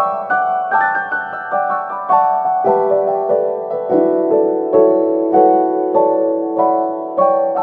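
Background piano music: a slow melody of single struck notes, each fading away, over a lower held note.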